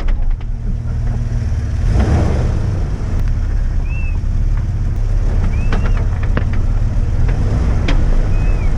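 Off-road 4x4's engine running under load as it crawls a rough trail, with scattered knocks from the tires and chassis over rocks. Three short high squeaks come about four, six and eight and a half seconds in.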